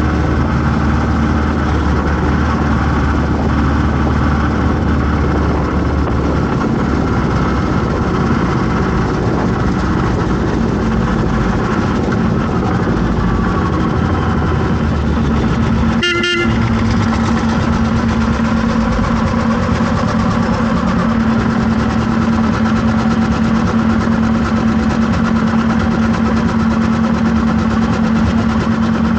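Traffic in a jam: vehicle engines running steadily, with car horns honking.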